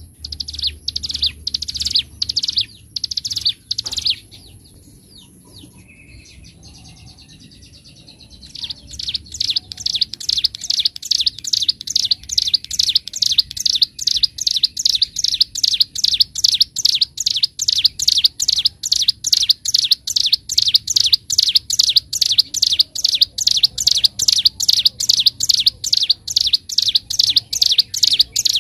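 A ciblek gunung (prinia) singing: a few loud high phrases, a short quieter pause, then a long run of quick repeated notes at about three a second, the drilling 'ngebren' song of a bird in full voice.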